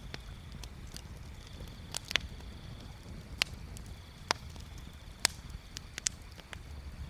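Wood bonfire crackling: scattered sharp pops and snaps, a few louder ones from about two seconds in, over a low steady rumble of the burning fire.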